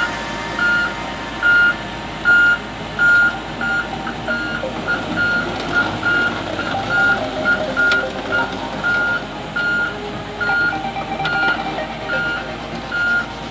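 Fuwa FWX55 crawler crane's travel alarm beeping steadily, about one short beep every 0.8 s, over the crane's engine running as it tracks slowly across the yard.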